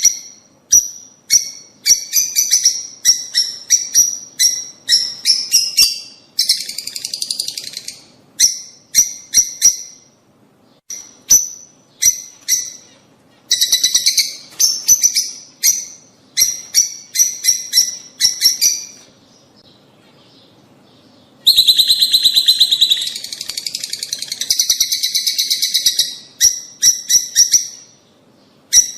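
Lovebirds chirping in fast runs of sharp, shrill notes, with denser chattering stretches and a pause of about two seconds past the middle.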